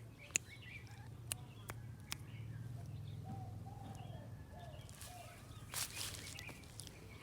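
Faint outdoor ambience with birds calling: short curved calls around the middle and scattered chirps, over a steady low hum, with a few sharp clicks in the first two seconds.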